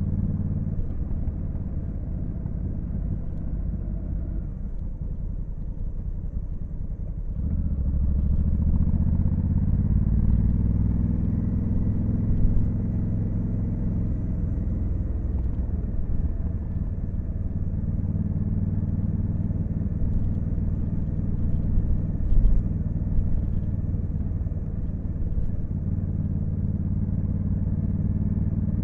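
Honda Africa Twin CRF1100L's parallel-twin engine under way. It runs lightly at first, then gets louder about seven seconds in as the rider opens the throttle, its pitch rising over a few seconds before it settles into a steady cruise. There are a couple of short knocks partway through.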